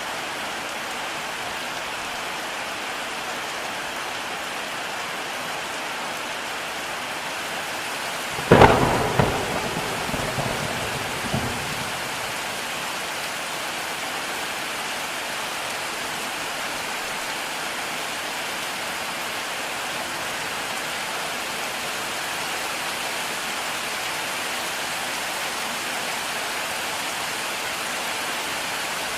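Heavy rain falling steadily, with a single sudden thunderclap about a third of the way in that rumbles off over the next few seconds.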